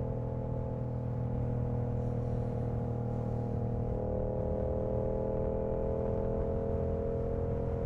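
Yamaha R7's CP2 689 cc parallel-twin engine pulling on the move. The exhaust note holds steady, then slowly rises in pitch through the second half as the bike gains speed in gear.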